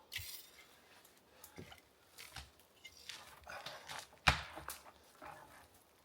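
Irregular crunching and rustling of dead wood and brush being worked, with scattered snaps and one sharp, loud crack about four seconds in.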